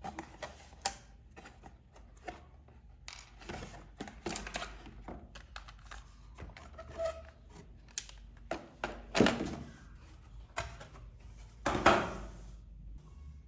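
RC toy cars and their packaging being handled: irregular clicks and taps, with two louder knocks about nine and twelve seconds in.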